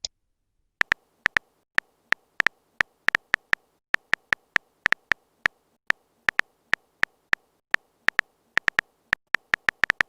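Phone keyboard typing sound effect: short, sharp tapping clicks at an irregular pace of about three or four a second, over a faint steady hum.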